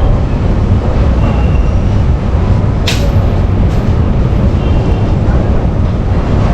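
Passenger train running: a steady, loud rumble of the wheels on the track, with one sharp clank about three seconds in.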